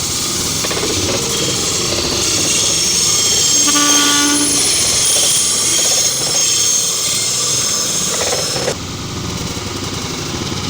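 Double-headed diesel passenger train passing close by: steady loud rolling of wheels on rails. There is a short horn-like tone about four seconds in, and the sound drops off suddenly near the end.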